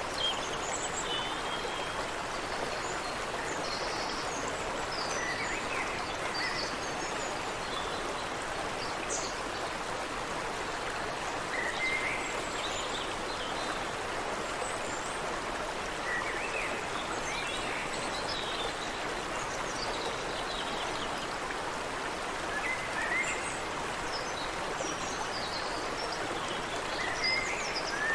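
Water running steadily in a stream, with small birds chirping over it in short phrases, one similar phrase coming back about every five to six seconds.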